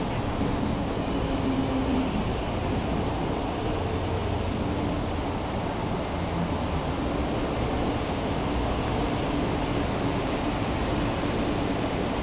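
Electric commuter train running alongside a station platform: a steady rumble of wheels on rail with a faint constant hum.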